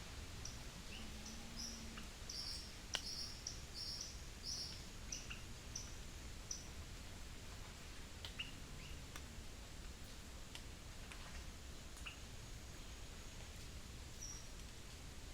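Wild birds chirping: a quick run of short, high-pitched chirps in the first half, then scattered single chirps and faint clicks over a steady low background hum.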